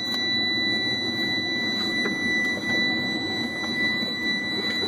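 A cold Sterling roll-off truck's diesel engine cranking on the starter without catching, under the cab's steady, high-pitched warning buzzer.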